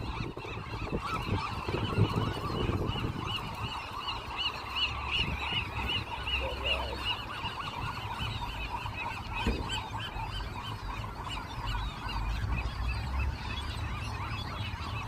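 A large nesting seabird colony calling: a dense, unbroken chorus of many overlapping short calls.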